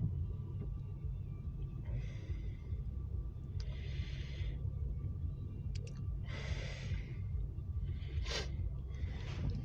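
A person breathing close to the microphone, short hissy breaths about every two seconds, over a steady low rumble.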